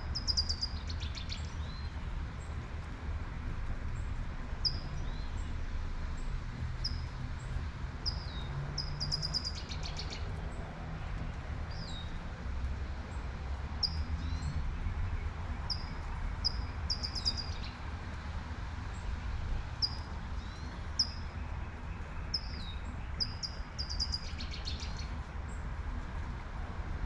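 A songbird repeating short, high, downward-sliding chirps about once a second, breaking into a quick trill every seven or eight seconds. Underneath are the hiss of light rain and a steady low rumble.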